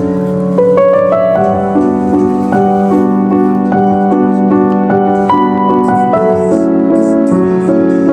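Background piano music playing a gentle melody over a held low note, with a quick upward run of notes about a second in.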